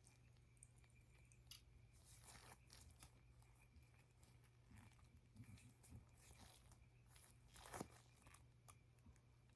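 Near silence: faint scattered clicks and rustles of gloved hands handling a syringe and medication vial, with one louder click near the end, over a low steady hum.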